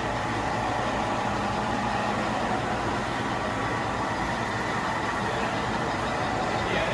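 Model railroad trains running on the layout: a steady, even engine-like running sound with a faint high steady tone.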